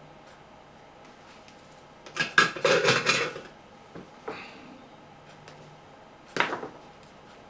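Small hard objects being handled on a workbench, clicking and clattering: a burst of rattling about two seconds in, a softer scrape a little later, and another short clatter near the end.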